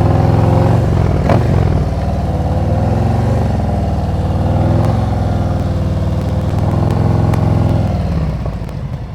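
Motorcycle engine held at raised revs with the throttle preloaded while the clutch is slowly let out to pull away uphill from a standstill. A brief knock comes about a second and a half in, and near the end the revs drop back toward idle.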